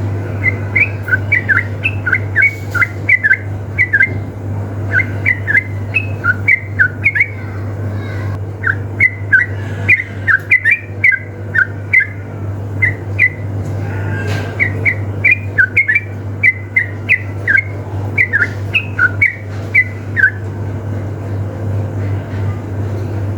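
Yellow-vented bulbuls (trucukan) singing in quick phrases of short, bubbly whistled notes, several phrases in a row with brief pauses between them, over a steady low hum. The song stops about 20 seconds in.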